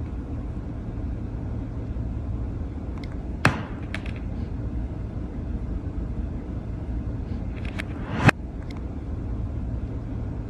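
Steady low rumble, with a sharp knock about three and a half seconds in and another about five seconds later, and a few fainter clicks around each.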